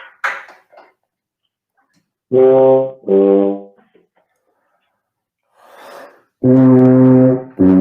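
Tuba playing the opening bars of a phrase: two short low notes, a breath, then a long held note with the next one starting near the end. The pitch is sagging too far down, flat, as the teacher hears it.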